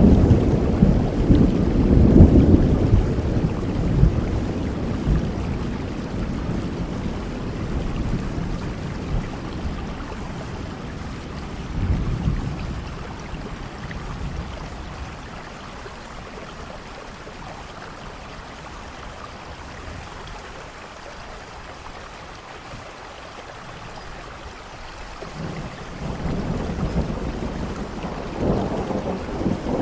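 Steady rain with rolling thunder. A loud rumble fades over the first several seconds, a shorter rumble comes about twelve seconds in, and another builds up near the end.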